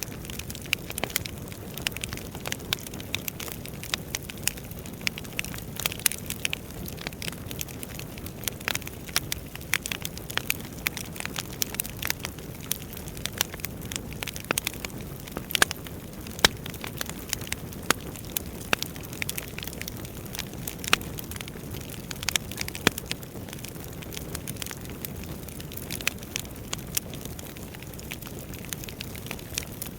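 Wood fire burning in a fireplace, with a steady low rumble of the flames and frequent irregular sharp crackles and pops from the burning logs.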